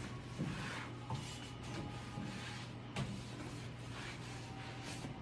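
A few light knocks and clicks of things being handled, over a faint steady hum.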